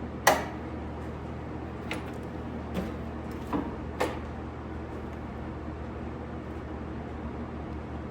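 Clamps being set on a sheet-metal repair panel: five sharp metallic clicks and knocks in the first four seconds, the loudest just after the start, over a steady low hum.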